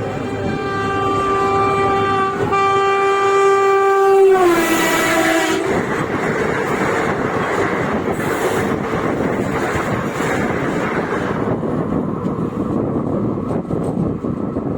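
Train horn sounding a long note with a brief break in the middle, dropping to a lower pitch about four seconds in, then cutting off. After that comes the steady rumble and clatter of the train running over the rails.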